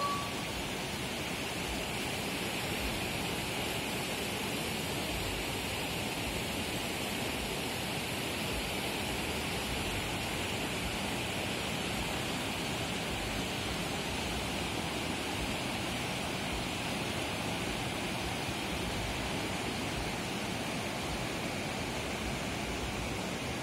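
Fast-flowing river water rushing steadily over rapids, an even, unbroken noise.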